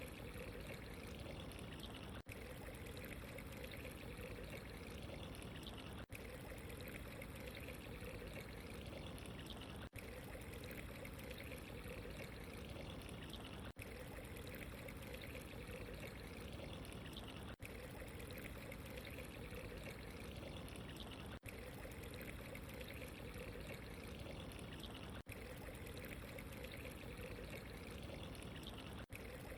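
Steady running, trickling water ambience that stays even throughout, broken by a very brief dropout about every four seconds.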